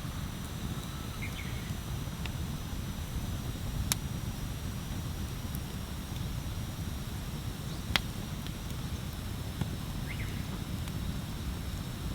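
Wood bonfire burning, with a steady low noise and a few sharp crackling pops, the two loudest about four and eight seconds in.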